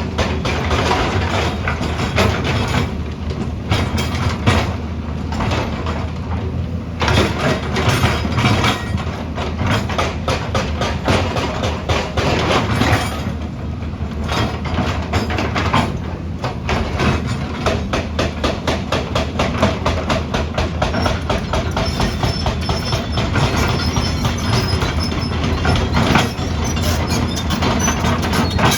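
Heavy construction machinery working: a diesel engine's steady low drone under fast, rhythmic metallic clattering and clanking.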